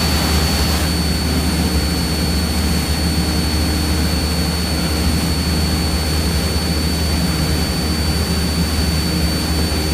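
Cessna 172's piston engine and propeller in cruise, heard inside the cockpit as a steady, even drone. A thin, steady high whine sits over it.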